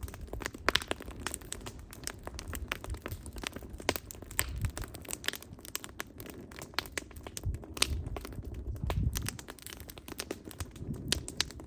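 Wood fire crackling: irregular sharp pops and snaps of burning logs over a low, soft rumble of flame.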